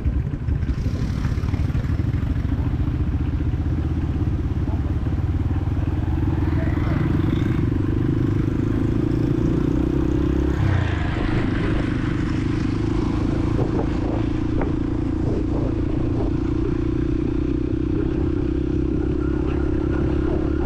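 Honda CRF150L's single-cylinder four-stroke engine running under way, with a steady note that shifts about halfway through, amid city traffic.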